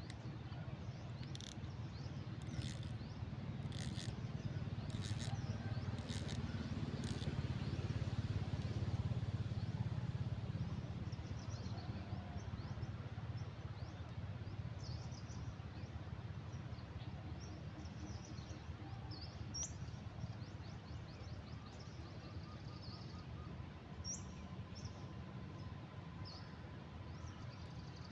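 Outdoor riverside ambience: a steady low rumble that swells and fades in the middle, with small birds chirping on and off. A few sharp high clicks come in the first several seconds.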